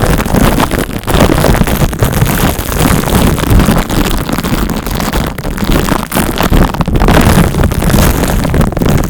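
Close, loud rubbing and scratching directly on the microphone, like fingers massaging it in the manner of a scalp massage; a continuous, irregular crackling rustle.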